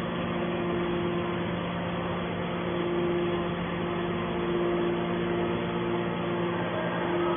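Steady hum of a hydraulic baler's motor and pump running, with a higher tone that drops out briefly about two seconds in and then returns.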